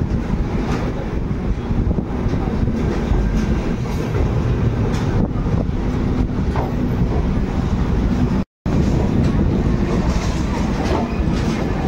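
Passenger express train running on the track: a steady heavy rumble of the coach with occasional clicks from the wheels on the rails. The sound drops out completely for a moment about eight and a half seconds in.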